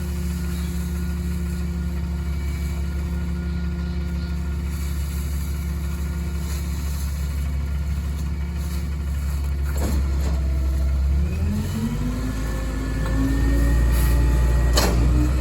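Kenworth rear-loader garbage truck's diesel engine idling steadily, then revving up about eleven seconds in, as it does when the Heil packer's hydraulics work the load. Two sharp metallic knocks, one just before the rev-up and one near the end.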